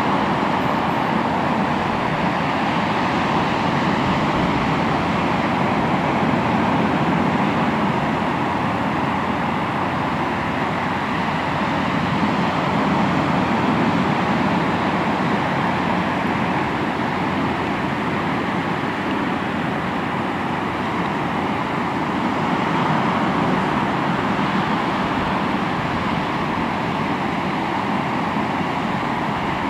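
Sea waves washing onto the shore: a continuous wash of surf that swells and eases slowly every several seconds.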